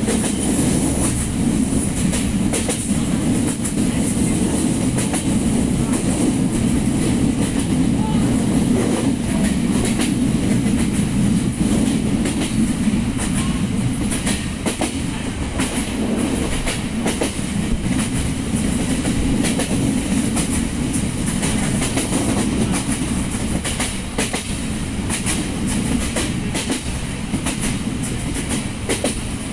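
Train running along the track, heard from aboard: a steady rumble of wheels on the rails, with scattered clicks from the rail joints.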